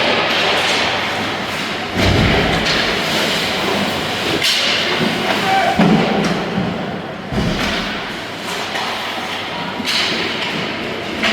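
Ice-rink game sounds: several heavy thuds against the boards, about two, four and a half and seven seconds in, over a steady hiss of skating and distant voices.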